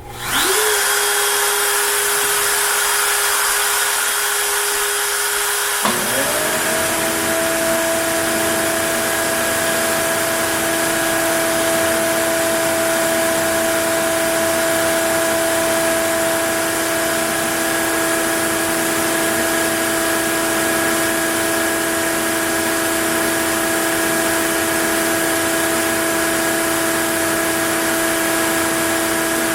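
A shop vacuum for the CNC's dust collection switches on: its motor spins up with a quick rising whine over a steady rushing hiss. About six seconds in, the CNC router spins up with a second, higher whine, and both then run steadily.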